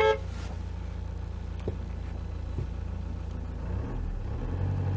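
A car's engine idling, a steady low hum heard from inside the cabin. A short, loud pitched sound comes right at the start, and the hum shifts about four seconds in.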